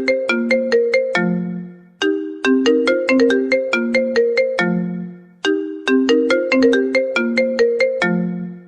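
iPhone ringtone playing on a loop: a short phrase of quick, struck, mallet-like notes that closes on a lower held note. The phrase repeats about every three and a half seconds, starting again about two seconds in and again past the middle.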